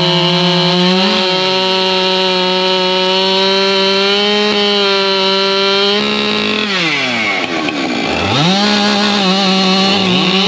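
Two or more Husqvarna two-stroke chainsaws held at high revs together, their engine notes clashing. About seven seconds in, one saw drops off throttle and comes straight back up, and there are smaller dips near the start and the end.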